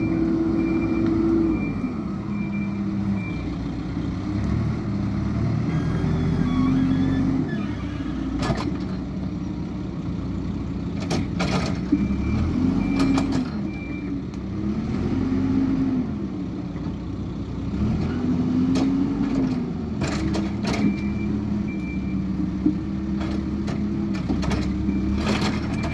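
Hidromek 102S backhoe loader's diesel engine revving up and settling back again and again as it works, with a reversing alarm beeping at the start and near the end, and several sharp metallic clanks.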